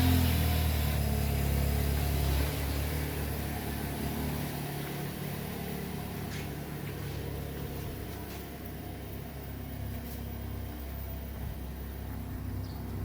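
2022 Toyota Corolla's four-cylinder engine idling just after a cold start: the fast idle drops in level about two and a half seconds in, then the engine settles into a quieter, steady idle.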